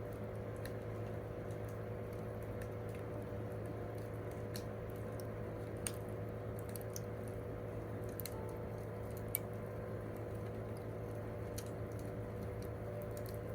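Wood campfire crackling: irregular small pops and snaps over a steady low rumble, with two sharper pops about six and nine seconds in.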